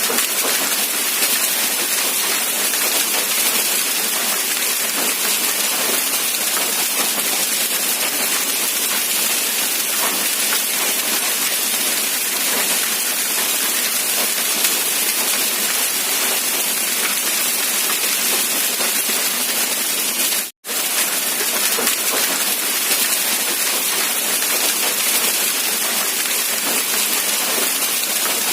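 Steady rain, an even dense hiss of drops with no thunder, cut by one brief sudden gap in the sound about two-thirds of the way through.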